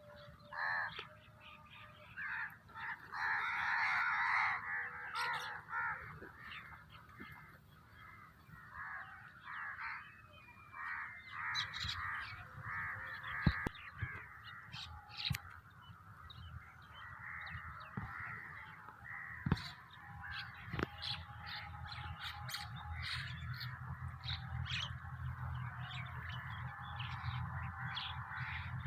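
A crowd of birds calling over one another, with crows cawing among them. A steady low rumble builds underneath in the second half, and there are two sharp clicks near the middle.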